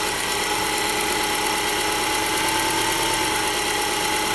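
Subaru EL15 1.5-litre flat-four engine running steadily at a fixed speed, warmed up. It has a muffled knock near the fourth cylinder, which the owner suspects comes from worn bearing shells or the piston.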